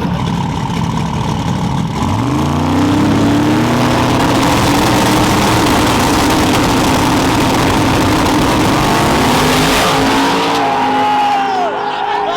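Drag-racing truck engines launching at full throttle: the pitch climbs sharply about two seconds in, holds loud and steady down the strip, then drops away near the end as they lift off.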